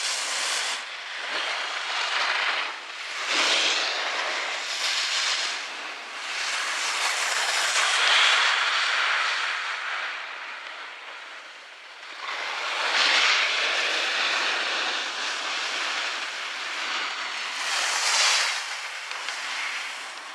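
Skis scraping and carving on a packed snow slope, a hiss that swells and fades with each turn.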